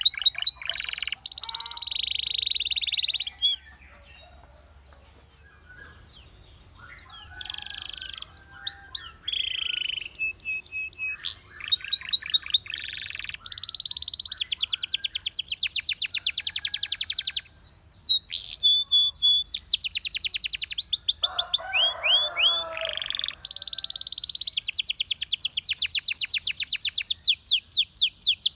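Canary singing: phrases of fast, evenly repeated high notes and trills, each phrase a different tour. There is a quiet gap of about three seconds some four seconds in, and a lower, rattling phrase a little past the middle.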